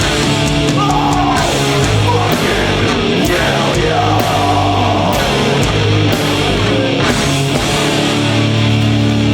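Heavy metal band playing live and loud: distorted guitars and bass over pounding drums and cymbal crashes, with no vocals, and a lead line sliding in pitch over the first few seconds.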